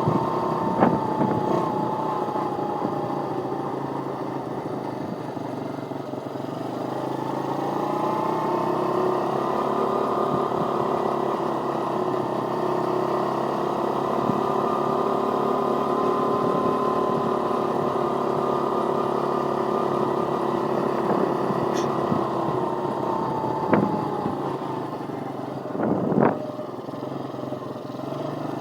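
Pit bike engine running during a ride. Its pitch falls over the first few seconds, climbs again and holds steady for a long stretch, then drops off and picks up again near the end. A couple of brief knocks come about a second in and near the end.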